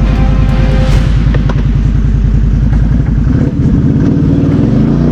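BRP Outlander 650 ATV's V-twin engine running while riding, its engine note changing about three seconds in.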